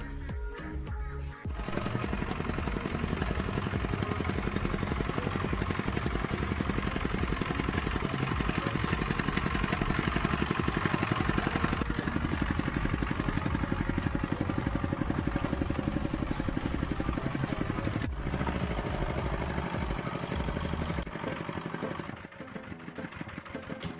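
A small engine running steadily with a fast, even pulsing, starting a couple of seconds in and cutting off abruptly near the end.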